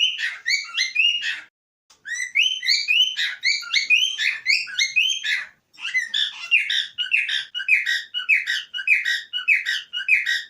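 Male cockatiel singing: quick runs of short whistled notes, several a second, broken by two brief pauses.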